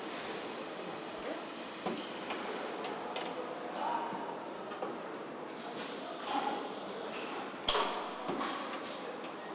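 Truck assembly plant floor noise: a steady machinery hum with scattered metal clanks and clinks, the loudest about three-quarters of the way in, and a few short pings.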